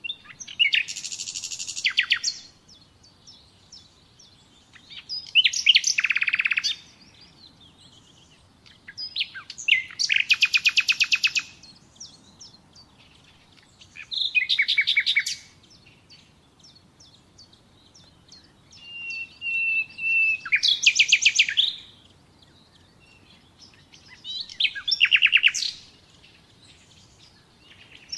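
Nightingale singing: six short song phrases a few seconds apart, each a fast run of rapidly repeated notes. One phrase opens with a long steady whistle before its run of notes.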